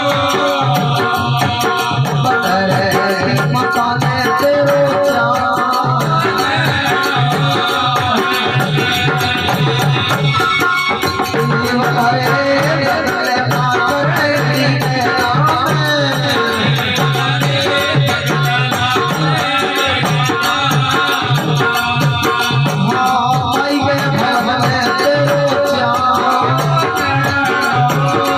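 Live Rajasthani folk bhajan music: a steady drum beat with a jingling rattle and sustained melody.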